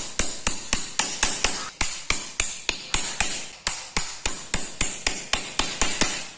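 Hammer blows in a steady, quick rhythm, about four a second, each a sharp knock with a short ring, stopping near the end.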